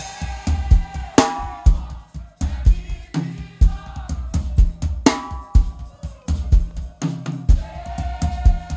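Live church band's drum kit playing a driving beat of bass drum, snare and rimshots, with a few short held musical notes over it.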